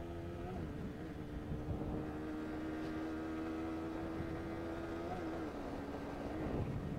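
Single-cylinder sport motorcycle engine running steadily at speed, heard from the rider's position with wind rush, its pitch dipping briefly about half a second in and twice near the end as the throttle is eased.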